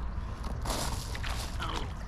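Water splashing a little over half a second in as a hooked smallmouth bass thrashes at the surface while being landed by hand, over a steady low rumble.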